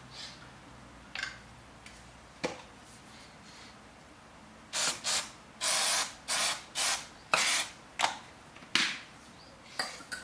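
An aerosol can of brake cleaner sprayed in about eight short hissing bursts, spaced roughly half a second apart, to wash metal shavings off a part. A couple of light knocks come before the spraying.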